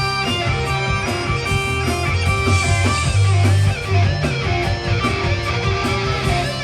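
Live rock band playing loud and steady, with guitar over a strong bass line. A lead line of bending notes sounds in the middle.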